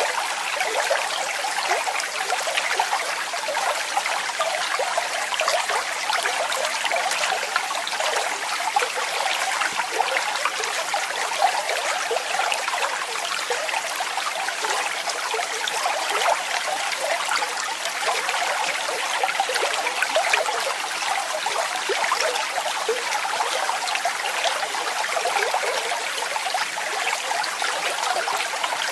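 Waterfall: water falling and splashing steadily, a continuous light splashing without any deep rumble.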